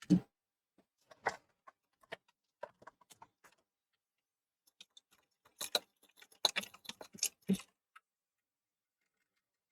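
Small metal tools being handled on a workbench: a knock right at the start, then scattered light clicks and taps, with a busier run of clicks and knocks about six to seven and a half seconds in.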